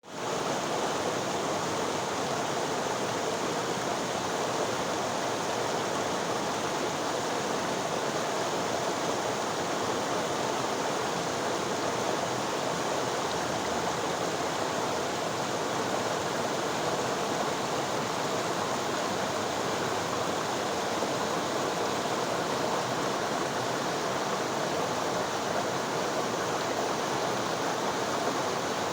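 River water rushing and flowing steadily, an even unbroken rush that fades in at the very start.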